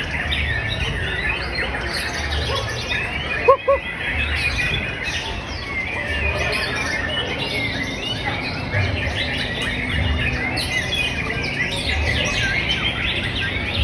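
White-rumped shama (murai batu) and other songbirds singing, with many quick overlapping chirps and trills throughout. Two short, louder, lower notes stand out about three and a half seconds in.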